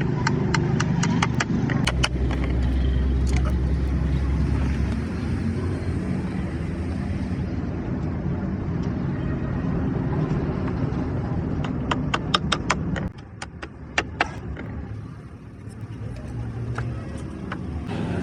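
A motor vehicle engine running steadily, with runs of sharp clicks or ticks; it drops quieter about two-thirds of the way through, then builds up again.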